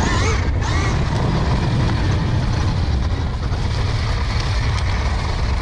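Wind rushing over the microphone and the rumble of an electric dirt bike, a KTM Freeride E-XC, riding along a trail. It is a steady, loud, deep noise with no engine note, since the bike is electric and nearly silent.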